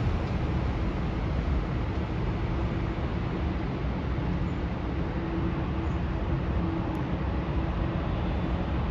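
Steady rumble of airport noise from distant jet aircraft, with a faint steady hum running through it.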